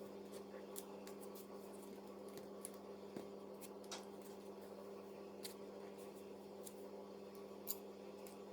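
Faint, scattered small clicks and taps as the parts of a die-cast toy lorry are handled during reassembly, over a steady low hum.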